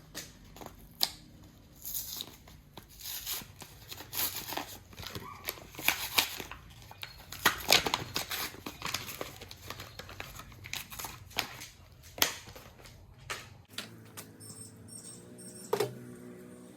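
Packaging crinkling and tearing, with irregular clicks and scrapes of small items being handled, as two-part JB Weld epoxy is opened and dispensed. Near the end the handling thins out to a few sharper clicks.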